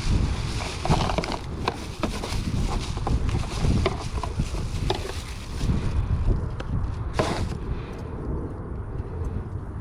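Wind buffeting the microphone as a steady low rumble, with scattered light clicks and knocks and one short, louder rustle about seven seconds in.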